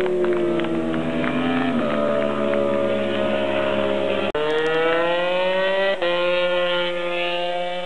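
MotoGP racing motorcycle engines at high revs, several at once, their pitch sliding down and then climbing again as bikes pass and accelerate. The sound breaks off sharply about four seconds in and again about six seconds in.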